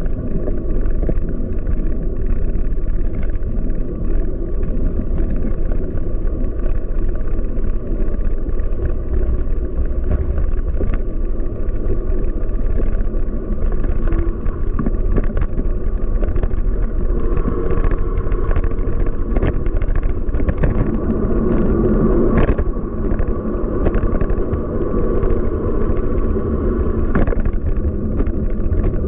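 City street traffic noise with a steady low rumble of wind on the microphone, heard while moving along the street, with a humming vehicle passing from about seventeen seconds in.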